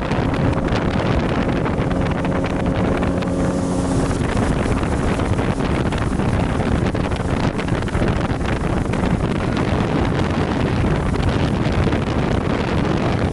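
Wind buffeting the microphone over the steady hum of a boat's engine; the engine's tone is plain for the first few seconds, then buried under the wind noise.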